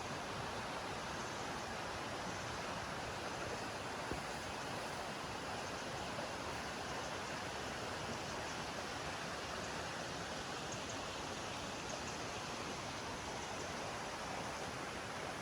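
Steady rush of running water, an even hiss that holds level without breaks.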